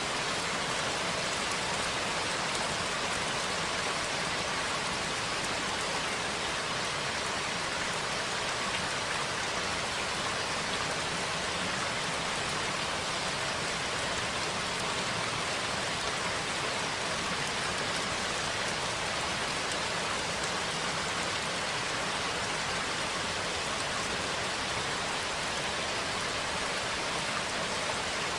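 Steady rain falling, an even hiss with no letup and no thunder.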